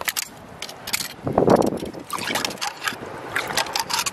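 Seawater washing among shore rocks, with one fuller wash about a second and a half in, and scattered clicks and knocks of stones. Wind buffets the microphone.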